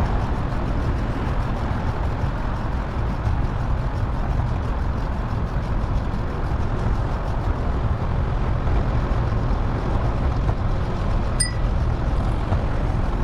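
Steady rumble and hiss of road and wind noise during a bicycle ride, with traffic, and a short high beep near the end.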